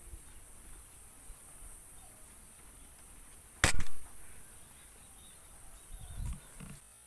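A single shot from a PCP air rifle, one sharp crack about three and a half seconds in, over a steady high-pitched hiss. A few low bumps follow near the end.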